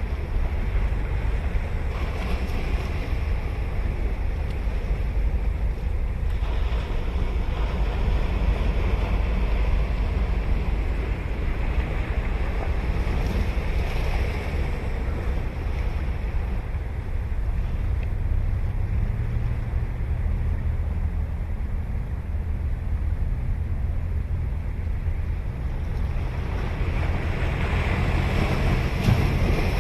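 Ocean surf on a beach: waves breaking and washing in, swelling up every several seconds, over a steady low rumble of wind on the microphone.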